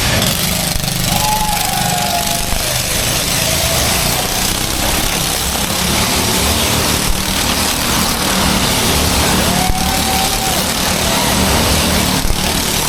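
Motorcycle engine running loudly and steadily with a rough, rapid beat.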